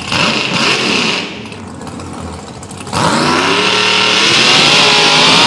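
Mud truck's engine revving hard: a short loud burst at the start, then from about three seconds in a long rev that climbs in pitch.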